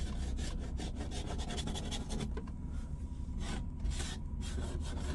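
Blizzard snow and ice blown against the motorhome, giving irregular rasping, hissing bursts in quick succession over a steady low hum.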